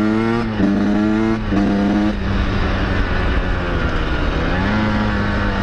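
1992 Honda CR500 two-stroke dirt bike engine under throttle, with three quick breaks in the revs in the first two seconds, as if shifting or blipping. It then runs steadily, its pitch dipping and climbing again near the end.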